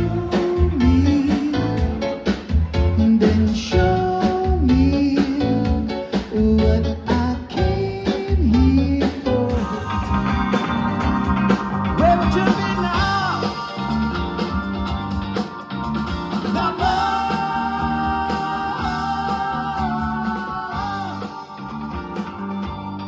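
Live yacht rock band playing: a rhythmic bass and guitar groove, with long held notes joining about halfway through.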